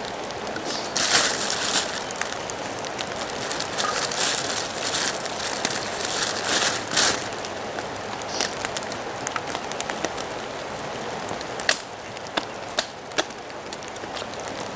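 Steady rain falling, with a few louder rustling surges in the first half and several sharp ticks near the end.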